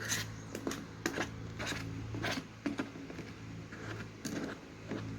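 Spoon stirring glue-and-glitter slime in a small plate, with irregular clicks and scrapes of the spoon against the plate, over a steady low hum.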